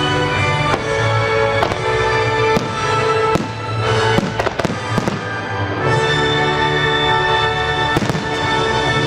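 Fireworks shells bursting in a series of sharp bangs, about one a second with a quick cluster of several bangs about halfway through and another near the end, over loud music with sustained notes played for a pyromusical display.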